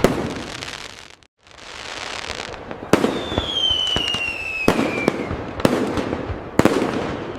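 Fireworks display: sharp aerial bangs about once a second over continuous crackling. A whistling firework falls in pitch for about two seconds midway. The sound cuts out briefly just over a second in.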